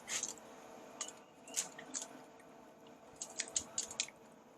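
A person chewing a bite of smoked baby back rib close to the microphone: wet smacking and clicking mouth sounds in short clusters, several of them near the end.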